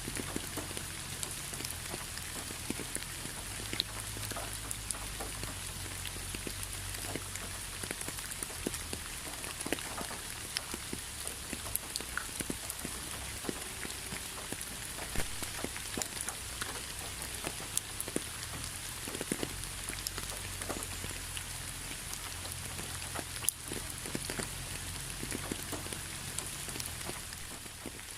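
Steady rain, with many individual drops ticking and pattering on a surface.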